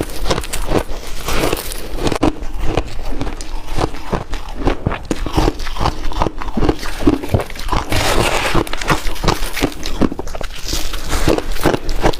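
A person chewing ice, with a continuous run of crisp crunches and cracks, several a second.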